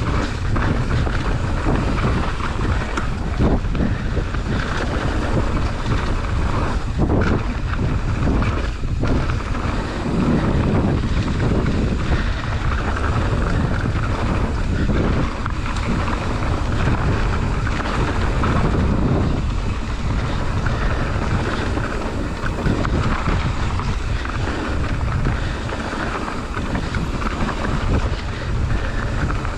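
Wind buffeting the microphone of a camera on a mountain bike riding fast downhill, with tyre rumble and scattered knocks from the bike over the trail.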